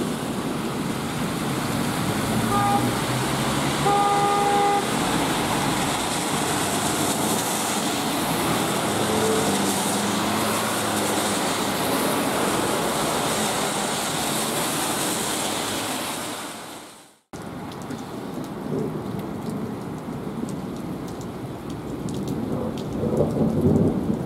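Heavy rain pouring down as a steady hiss over a wet street. A car horn honks twice, briefly, two to five seconds in. About two-thirds of the way through, the sound fades out and cuts back in quieter.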